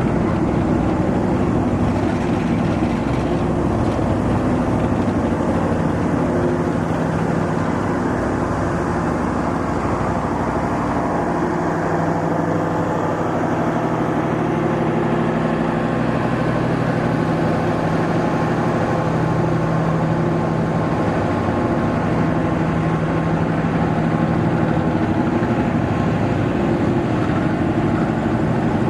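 Diesel locomotive engine running steadily with a deep, even drone, its pitch shifting only slightly.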